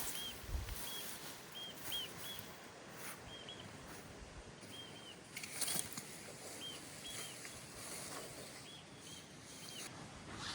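A small bird calling over and over with short, high arched chirps, often in pairs, over a steady outdoor background hiss. A few brief rustles or knocks come through, the clearest a little past the middle.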